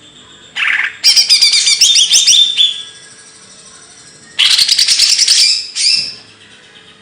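A songbird singing two loud bursts of fast, sweeping, chattering high notes, each about two seconds long, with a pause between.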